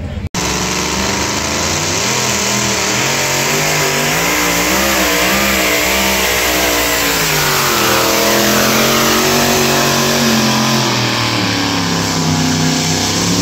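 Alcohol-burning two-wheel-drive pulling truck's engine running at full throttle under load during a pull, its pitch swinging up and down as the revs rise and fall. It cuts in suddenly just after the start.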